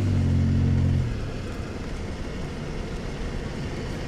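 Truck engine running with a steady hum that drops away about a second in, leaving a rough low rumble of the truck rolling along.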